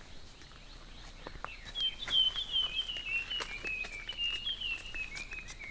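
A bird singing a fast run of short chirpy notes, beginning about two seconds in, over quiet jungle background with a few faint clicks.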